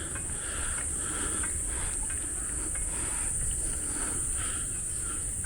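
Steady high-pitched drone of insects chirring in the forest, under a low rumble from the moving bicycle.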